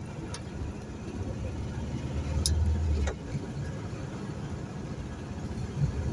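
1978 Volkswagen Fusca's air-cooled flat-four engine running while driving, a low drone heard from inside the car. It swells about two seconds in and drops back at about three seconds.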